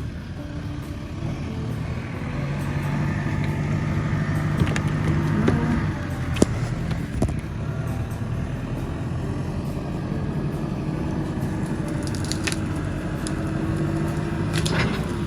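New Holland T5060 tractor's diesel engine working under load, getting louder a couple of seconds in. A few sharp cracks and snaps come through it, from branches and roots breaking as the front bucket pushes small trees out.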